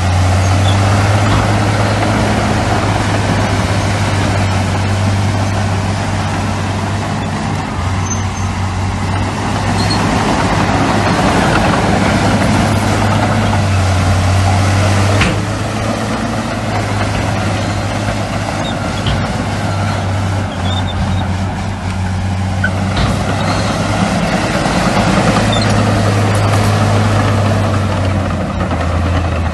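Diesel engines of heavy earthmoving machinery running steadily, with a deep hum and a sharp click about halfway through.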